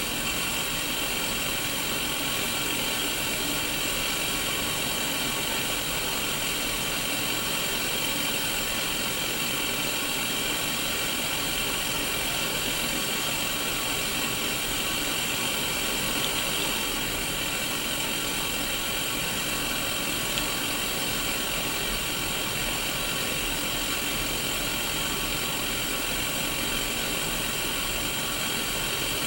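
Steady static hiss from a Sony Mega Watchman mini black-and-white CRT television showing no channel, even throughout, with a faint buzz of steady tones beneath the hiss.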